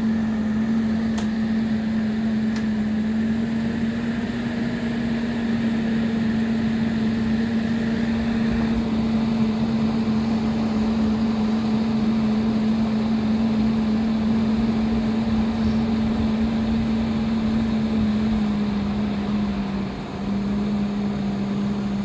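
Mobile crane's engine running at a steady speed, a constant hum that drops slightly in pitch near the end and briefly dips about twenty seconds in.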